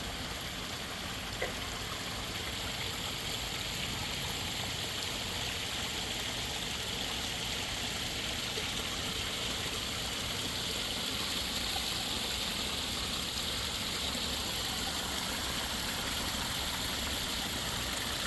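Water running and splashing steadily over a garden koi pond's waterfall, an even rushing sound.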